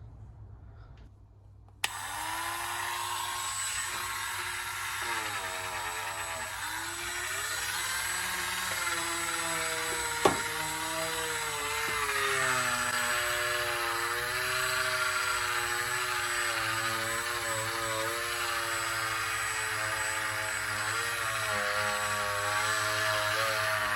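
Cordless Dremel 8220 rotary tool switching on about two seconds in and running, polishing a stainless steel wheel rim with Autosol. Its motor pitch dips and wanders as the polishing head is pressed against the metal. There is a brief sharp click about ten seconds in.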